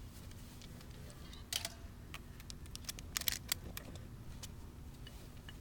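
Small sharp metallic clicks from handling a 12-gauge semi-automatic shotgun between rounds, typical of shells being pushed into the magazine. One cluster comes about a second and a half in and a quicker run of clicks follows about three seconds in.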